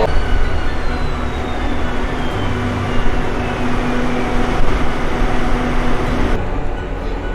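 A train running, a loud steady rumble with a faint whine that falls slowly in pitch; the sound changes abruptly about six seconds in.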